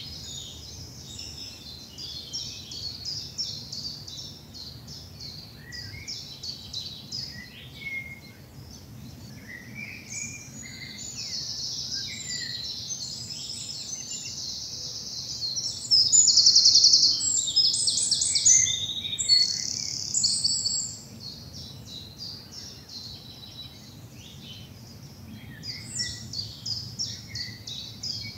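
Early-morning woodland chorus of several songbirds singing over one another, high chirps and trills. From about 16 to 21 seconds in, one much louder, close bird sings fast runs of rapidly repeated notes. A faint low rumble sits underneath.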